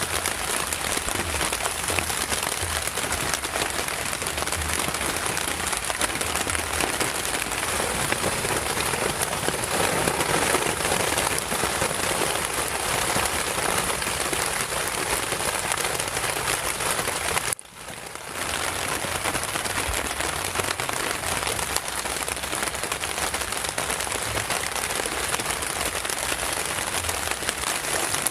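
Heavy rain falling steadily, a dense hiss of many fine drops. The sound drops out suddenly for about half a second roughly two-thirds of the way through, then the rain carries on.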